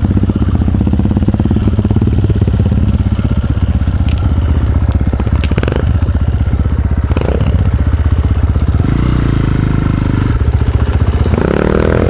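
Enduro dirt bike engine running hard under way, with a few sharp knocks and clatters from the bike over rough ground in the middle, and the engine revving up near the end.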